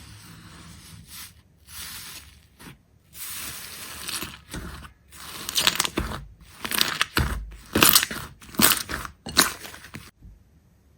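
Soft rubbing hiss, then a series of loud crisp crunches, about two a second, ending abruptly near the end.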